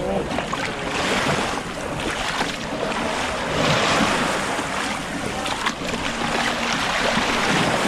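Sea waves washing onto a pebble beach, the surf swelling and falling back in surges a few seconds apart, with wind on the microphone.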